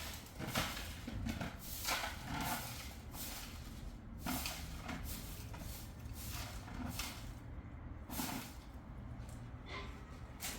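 Irregular rustling with soft knocks, a dozen or so short bursts spread unevenly.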